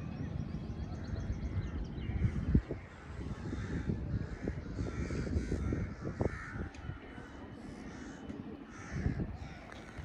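Birds calling over and over, many short calls close together, over a low rumble with a few low thumps, the loudest about two and a half seconds in.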